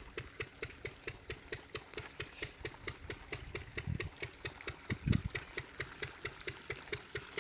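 Village diesel engine running steadily, with an even knock about four to five times a second and one louder low thump about five seconds in.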